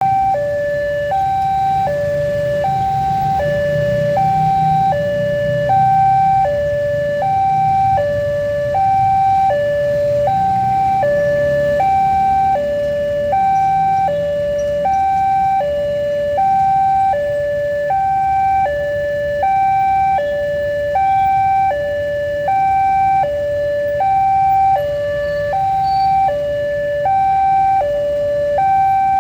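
Railroad level-crossing warning alarm sounding continuously, an electronic two-tone signal alternating between a higher and a lower pitch about every three-quarters of a second, warning of an approaching train. A low rumble runs underneath.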